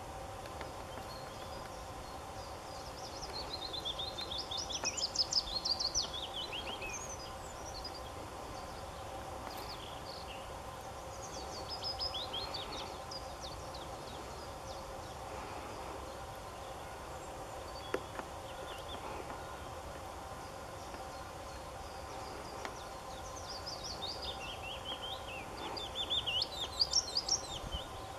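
A songbird singing three phrases of quick, high, falling notes, about four, twelve and twenty-five seconds in, the first and last the loudest, over a faint steady background hum.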